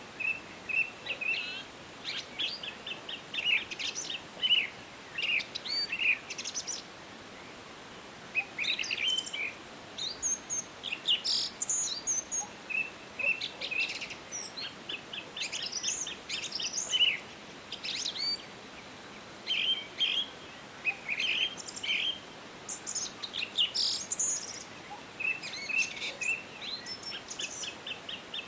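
Songbirds singing in a forest: short high chirps, trills and warbled phrases, some overlapping and some in quick repeated runs, with brief pauses between bouts over a faint steady background hiss.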